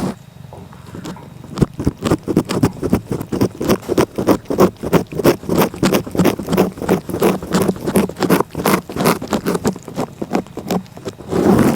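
A cat licking close up on the microphone: rapid rough-tongue strokes, several a second, that start about a second and a half in and run on steadily, with a short rustle near the end.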